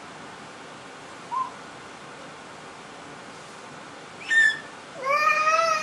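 A young child's voice: a brief chirp, then a sharp high squeal, then near the end a long drawn-out call that rises and falls in pitch.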